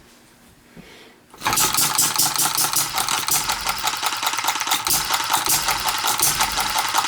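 Scratch-built model hit-and-miss engine starting suddenly about a second and a half in, then running with a loud, rapid, even mechanical clatter.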